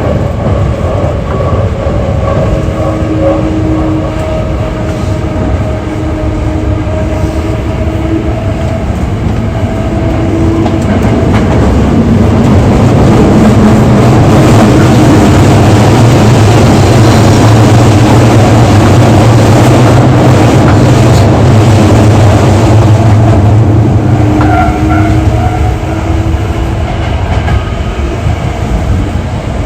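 Hankyu 8300 series electric train running between stations, heard from inside the car: a continuous rumble of wheels on rail with steady running tones. It grows louder about twelve seconds in and eases off again after about twenty-four seconds.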